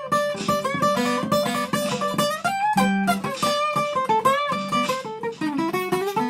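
Acoustic guitar playing a blues instrumental break: quick picked single notes over a low bass line, with a few notes bent or slid upward in pitch.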